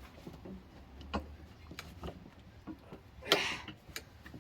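Scattered light clicks and knocks from working a stuck tire bead on a manual tire changer, with one louder brief scrape about three seconds in.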